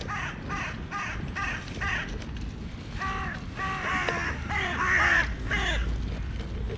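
Crows cawing over and over, a fast run of short harsh caws at about two a second, several birds calling over one another in the second half.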